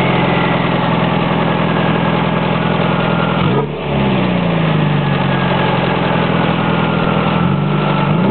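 Turbocharged 1998 Saturn four-cylinder engine free-revving through an open 3-inch downpipe. There are two quick throttle blips, about three and a half seconds in and near the end, and after each the revs fall slowly back. A faint high whine falls along with the revs.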